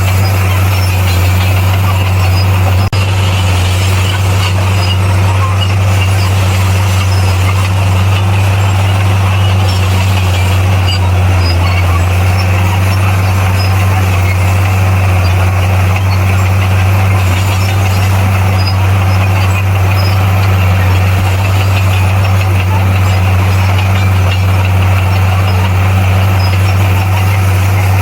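Bulldozer's diesel engine running at a steady, constant speed with a deep, unchanging hum. There is one brief click about three seconds in.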